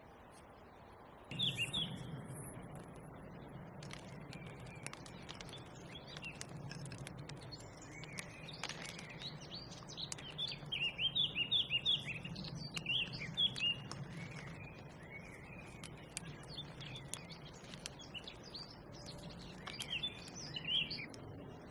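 Small birds chirping and singing, starting about a second in, with a fast run of repeated notes near the middle, over a steady low background rumble with scattered faint clicks.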